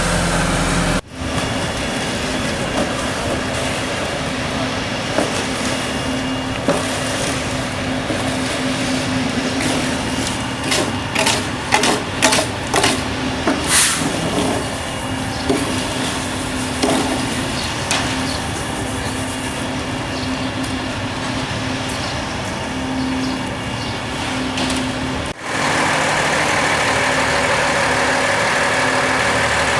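Engine of heavy road-work machinery running steadily, with a run of sharp clanks and knocks near the middle. The sound breaks off abruptly twice.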